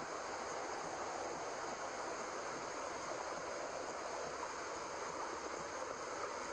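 Steady, unchanging white noise: an even hiss of the kind played to lull a baby to sleep, like the sound of the womb.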